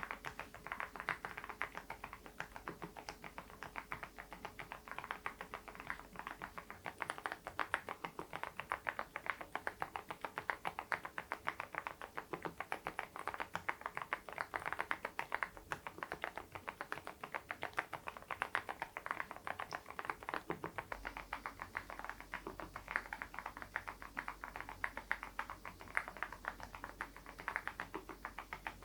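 Continuous fast typing on a Geekstar GKG87R tenkeyless mechanical keyboard fitted with HMX Sunset silent switches, a steady stream of soft keystrokes several a second.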